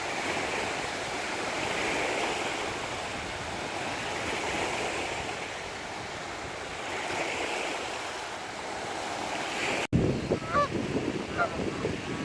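Sea surf washing in slow swells. About ten seconds in, it cuts abruptly to choppier surf with a few short honking bird calls over it.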